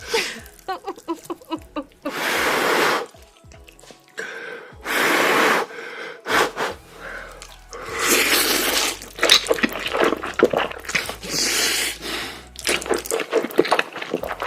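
A person slurping spicy noodles in several long slurps, each about a second, with small clicks between them.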